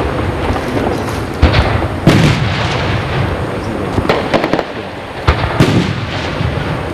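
Fireworks display: shells bursting overhead with sharp bangs about one and a half, two, four and five seconds in, over a continuous crackle and rumble of smaller bursts.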